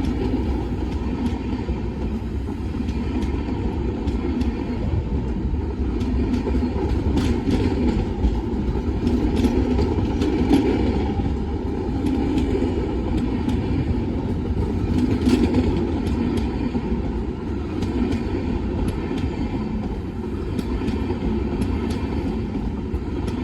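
Train running past with a steady rumble and scattered clicks and clacks of wheels on the rails.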